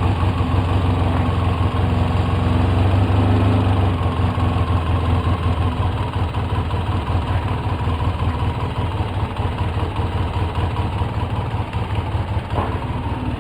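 2004 Polaris Sportsman 700 twin-cylinder engine idling high, around 1,300 rpm. About four seconds in it eases and settles a little lower as the idle is turned down toward 1,100.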